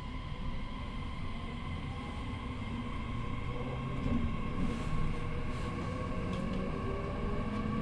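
JR East E501 series electric train pulling away and gathering speed, heard from inside the car: the traction motors whine in thin tones that rise slowly in pitch over the rumble of the wheels and running gear.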